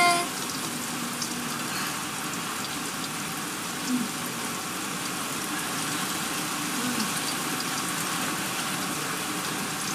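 Heavy rain pouring down in a rainstorm, a steady even hiss of downpour.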